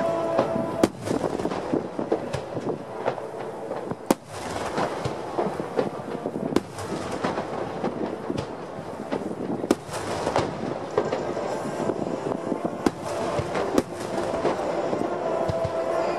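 Aerial fireworks shells bursting: a run of sharp booms at irregular intervals over continuous crackling.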